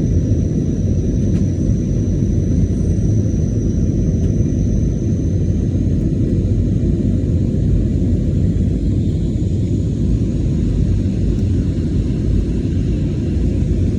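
Jet airliner cabin noise during takeoff and climb: a steady, loud low rumble of engines and airflow heard from inside the cabin. A faint high whine fades out over the first several seconds.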